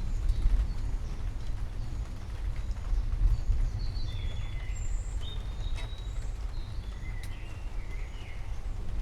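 Birds chirping and calling in short, scattered notes over a steady deep rumble.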